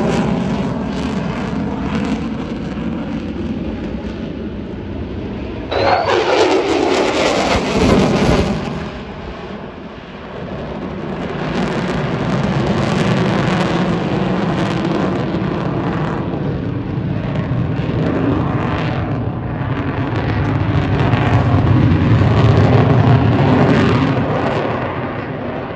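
Airshow display aircraft flying overhead with steady engine noise. About six seconds in it passes close, suddenly louder, and its pitch sweeps steeply down as it goes by. It then fades and builds again to its loudest near the end.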